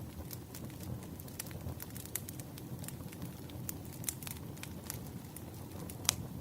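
Bonfire crackling: a steady low rumble of burning wood with frequent sharp pops and snaps, one louder pop near the end.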